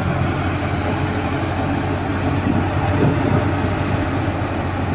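Heavy diesel machinery engine running steadily, with a low hum that swells slightly about three seconds in.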